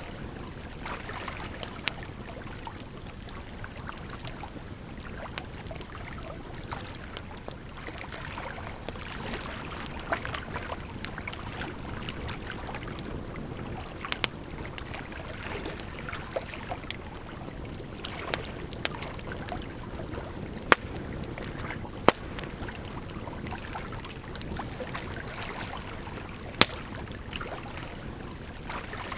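Firewood crackling as it burns, with sharp irregular pops and snaps, over a steady bed of flowing water.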